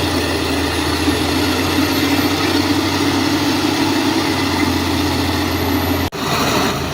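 Heavy diesel engine of earthmoving machinery running steadily with a low drone. About six seconds in the sound breaks off abruptly and a slightly different engine sound carries on.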